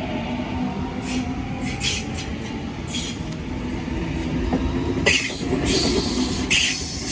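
A train rumbling along the track at a station, with short bursts of high-pitched hiss and squeal from its wheels and brakes, several of them in the second half.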